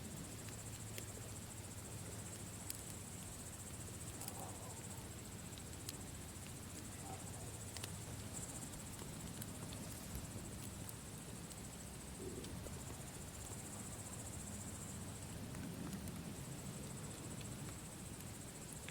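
Campfire burning with scattered sharp crackles and pops over a low steady rumble, with insects trilling steadily and high-pitched in the background.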